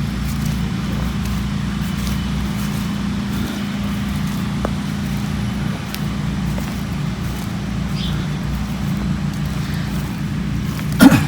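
Steady low hum of a running motor or engine, with a short louder sound just before the end.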